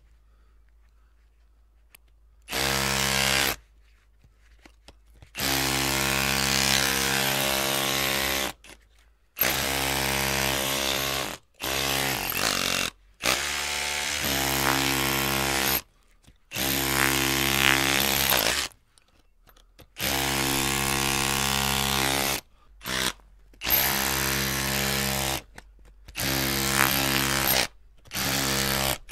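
Electric drill run in repeated bursts, the trigger squeezed and released about ten times: each burst a steady motor whine lasting one to three seconds, with short silent gaps between.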